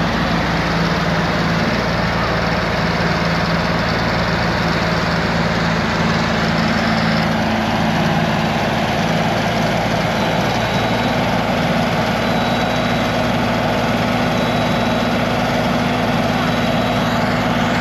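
Tractor diesel engines running steadily, the engine note shifting in pitch about seven seconds in and again about eleven seconds in.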